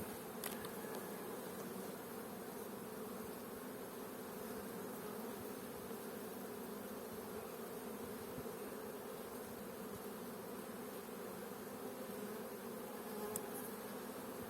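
Honeybees buzzing in a steady low hum.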